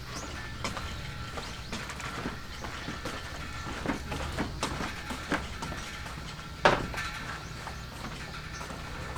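Scattered light clicks and knocks over a low steady rumble, with one louder knock about seven seconds in, like gear being handled.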